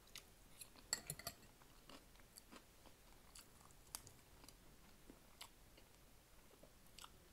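Faint close-up chewing and mouth sounds from a person eating fried pork chop, with scattered soft clicks and smacks.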